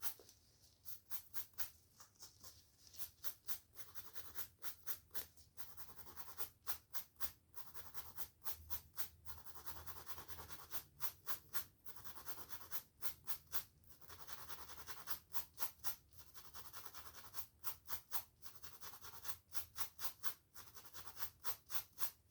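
Close-miked brushing and scratching of hair and scalp: quick rasping strokes, several a second, in runs broken by short pauses, with a few longer smooth passages.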